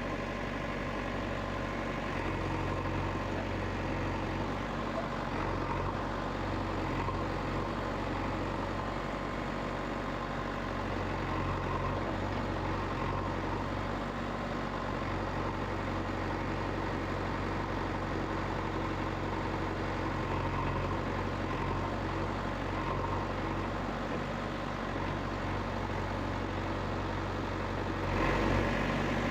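An engine running steadily at idle, a low even hum with no speech, growing a little louder near the end.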